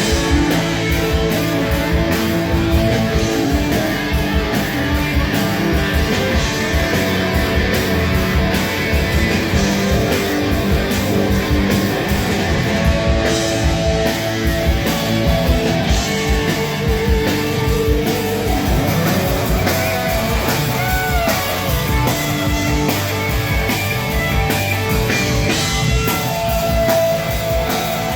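Live rock band playing an instrumental passage with electric guitar and drum kit.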